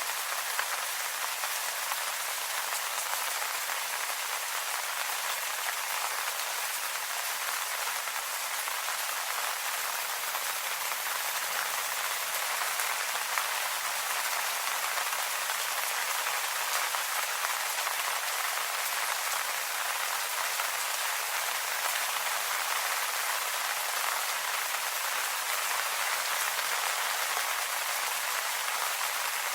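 Steady rain falling on leaves, an even patter of many drops.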